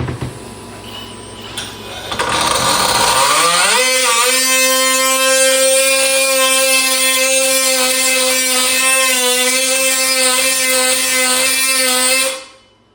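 Small handheld electric cutting tool switched on: its motor spins up with a rising whine over about two seconds, then runs at a steady high whine for about eight seconds and stops abruptly near the end.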